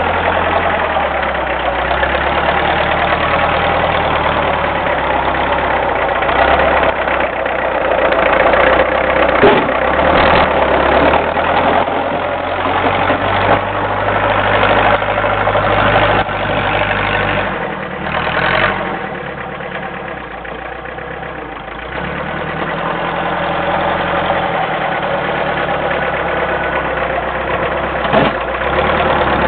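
Homemade doodlebug tractor's diesel engine running while plowing wet, heavy snow. It pulls harder and louder around eight seconds in, eases off for a few seconds past the middle, then picks up again. A few short clunks come through the engine noise.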